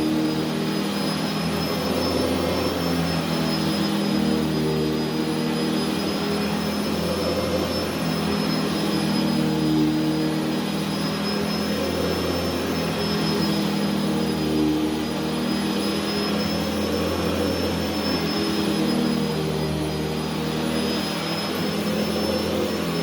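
Upright vacuum's motor running steadily with a high whine, the sound shifting a little every few seconds as the machine is worked back and forth over carpet.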